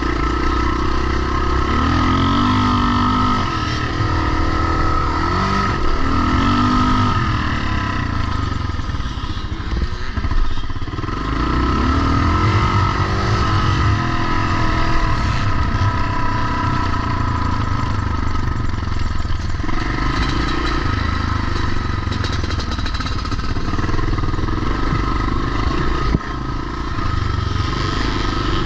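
Pre-1990 motocross motorcycles running hard, their engines revving up and down over and over.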